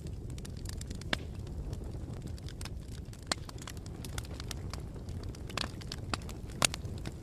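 Campfire burning: a steady low rumble of the flames with irregular sharp crackles and pops of the wood, one of the loudest pops near the end.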